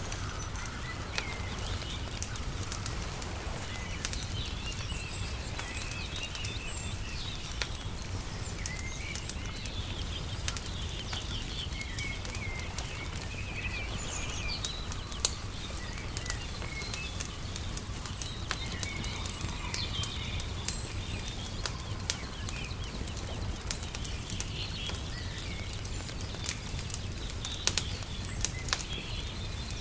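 Wood fire crackling in irregular sharp snaps, with small birds chirping over a steady low rumble.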